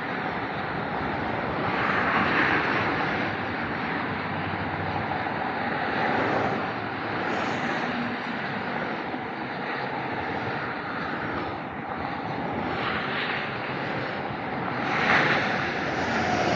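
Steady noise of fast motorway traffic, with single vehicles swelling louder as they pass about two seconds in, around six seconds, and twice near the end.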